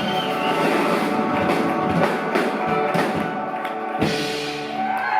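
Live rock band playing an instrumental passage with no vocals, with distinct drum kit hits over guitar and bass.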